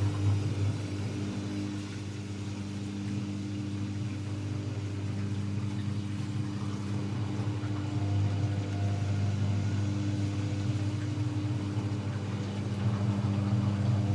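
AEG Lavamat L74810 front-loading washing machine running mid-cycle, a steady low mechanical hum that swells a little about eight seconds in.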